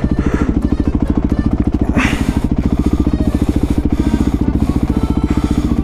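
Honda CRF450's single-cylinder four-stroke engine running steadily under way, with rapid even firing pulses; a rush of higher noise comes in about two seconds in.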